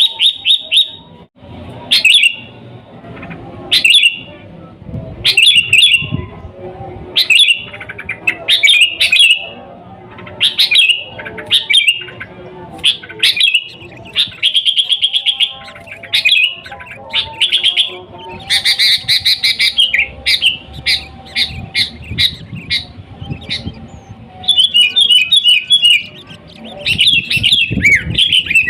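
Sooty-headed bulbul (kutilang) singing loud, short whistled phrases every second or two. There is a denser trill about two-thirds through, and rapid repeated notes near the end.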